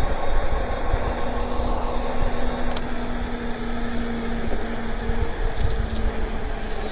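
Electric bike riding on a wet road: a steady low rumble of wind on the microphone and tyre hiss, with a steady whine from the hub motors that shifts slightly about five seconds in.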